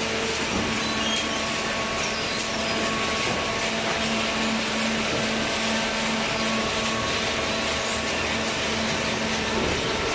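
Automatic hydraulic cardboard baler running: a steady machine hum with a droning tone that fades out near the end.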